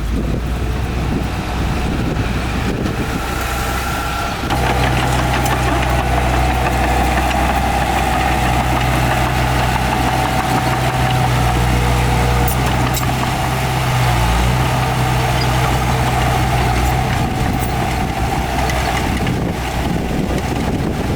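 Heavy diesel engine of earthmoving machinery running steadily under load. It grows louder about four seconds in and briefly dips in pitch a little past the middle.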